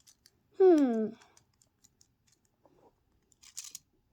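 A child's voice making a short sound that glides down in pitch about half a second in, followed by faint small clicks and a brief high scraping rustle of handled toys near the end.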